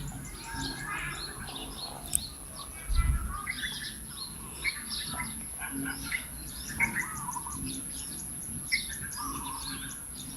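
Many birds chirping and calling over one another in short, overlapping notes, with a brief low thump about three seconds in.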